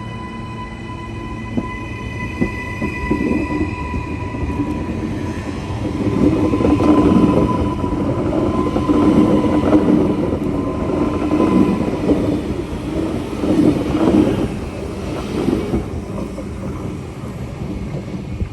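Brisbane electric commuter train running on the track: wheels rumbling and clacking, louder through the middle. A steady high tone is heard over the rumble and fades out about twelve seconds in.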